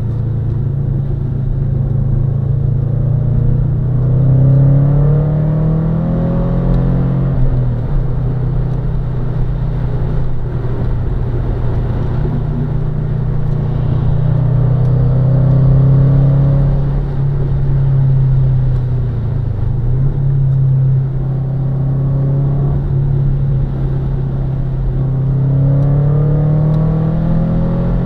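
Subaru Impreza's flat-four engine being driven hard on a circuit, its revs climbing and falling repeatedly through gear changes and braking, over steady road noise.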